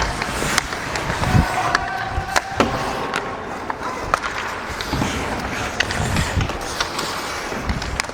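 Ice hockey skates gliding and scraping on the ice, heard close up on a player-worn microphone, with scattered sharp clacks.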